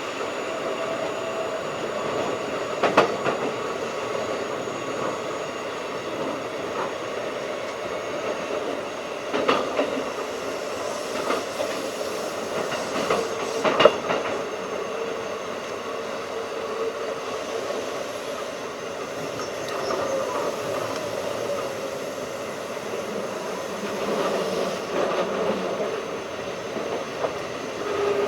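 Keikyu 1500 series field-chopper-controlled electric train running at speed: steady rolling wheel noise under a faint pitched motor hum, with a few sharp clacks of wheels over rail joints.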